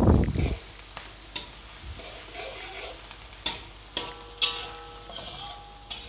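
Chopped onion and garlic sizzling in hot oil in a metal wok while a metal spatula stirs them, scraping and clinking against the pan several times. A heavy low thump comes right at the start.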